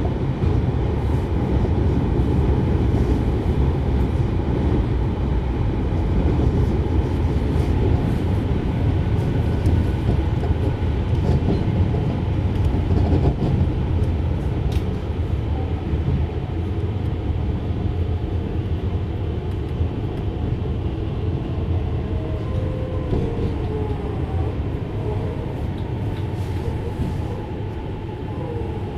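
JR Hokkaido 733 series electric multiple unit running along the line, heard from inside the car: a steady, loud rumble of wheels on rail. In the second half a faint whine slides in pitch.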